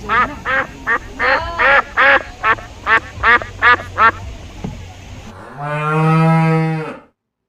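A duck quacking in a quick run of about ten short quacks, then a cow mooing once, a long low call of about a second and a half.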